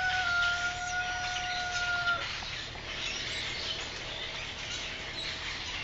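A large flock of grackles chattering and calling in oak trees, a dense high-pitched din. A rooster's long crow holds one steady note for the first two seconds, and a fainter steady tone follows.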